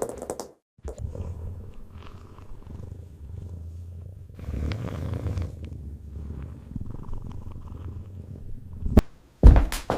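A cat purring: a steady low rumble, louder for about a second in the middle. Two sharp knocks near the end.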